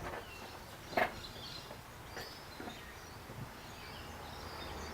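Quiet outdoor background with faint bird chirps, broken by a sharp knock about a second in and a smaller one at the start.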